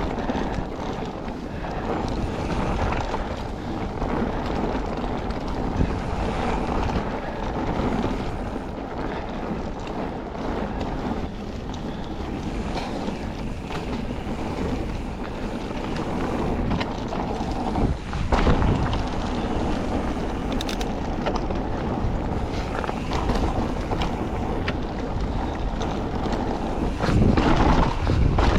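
Mountain bike being ridden along a forest trail: steady wind rushing over the microphone over the rumble of tyres on dirt, with the bike rattling over bumps and a couple of heavier knocks about two-thirds of the way in and near the end.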